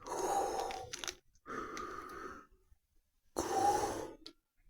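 A person breathing loudly and slowly in and out, three drawn-out breaths about a second each, in imitation of Darth Vader's respirator breathing.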